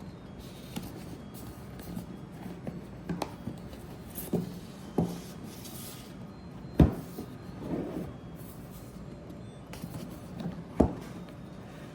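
Unboxing handling sounds: a box and its packaging being moved, opened and set down, with light clicks, scrapes and a rustle, and two sharp knocks, about seven and eleven seconds in, that are the loudest sounds.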